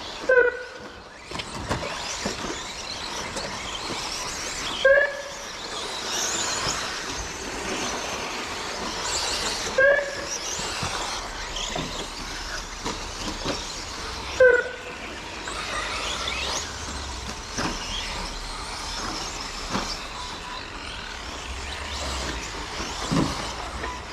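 Electric 1:10 RC short course trucks racing round the track: a continuous rush of tyre and drivetrain noise with rising and falling motor whines as they accelerate and brake. Four short, loud beeps come about five seconds apart, from the race's lap-timing system as cars cross the line.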